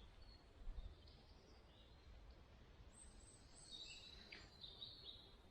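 Faint forest ambience with a few high, thin bird calls, mostly in the second half, over a low, steady background.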